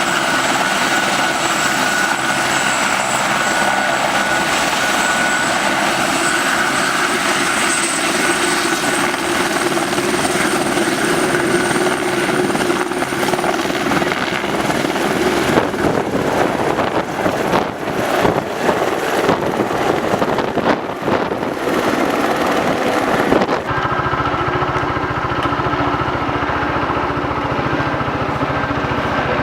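Police helicopter running steadily, its rotor and engine loud, turning uneven and fluctuating for several seconds past the middle. About three-quarters of the way through the sound changes abruptly to a lower, steadier engine hum.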